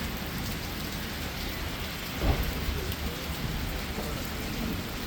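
Heavy rain falling steadily, with a sudden clap of thunder a little over two seconds in.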